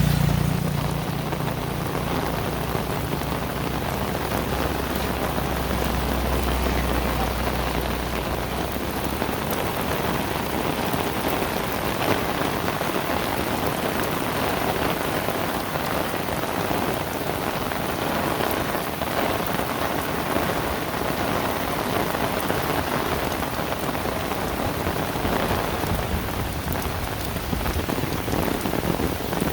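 Heavy rain falling steadily, an even hiss of drops hitting surfaces. A low hum sits under it for the first several seconds and then fades out.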